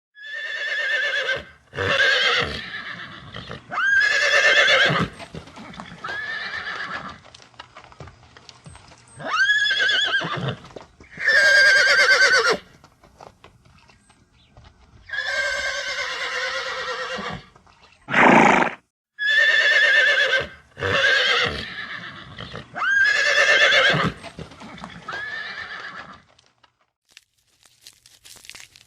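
Donkey braying: repeated hee-haw calls that alternate between a higher, rising note and a lower one, in several bouts with short pauses between them.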